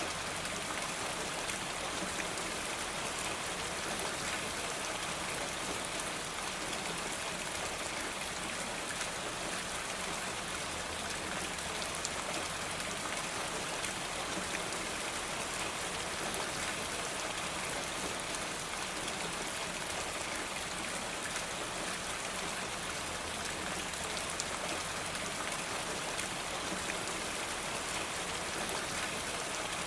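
Steady, dense patter of falling water drops over a constant hiss, like heavy rain.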